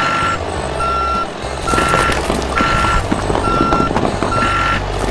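A reversing alarm on a mini model truck beeps at one steady pitch, a little under once a second. Under it are a low motor hum and a rattling clatter.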